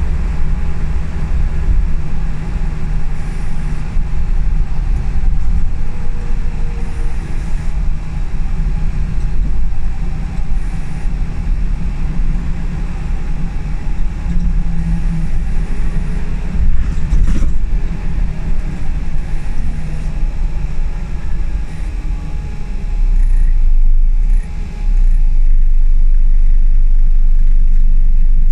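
Scania L94UB single-deck bus heard from on board: the engine runs with a steady low rumble as the bus drives, its pitch rising and falling with speed. There is a single sharp knock about two-thirds of the way through, and the low drone grows steadier and stronger near the end.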